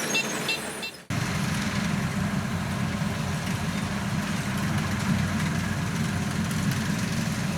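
A farm machine's engine running steadily at a low, even pitch. It starts abruptly about a second in, at a cut from a different, lighter ticking sound.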